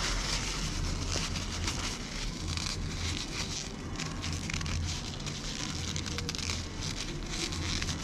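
Crunching and crackling of crispy fried chicken coating being bitten and chewed up close, a dense run of fine crackles that swells and eases.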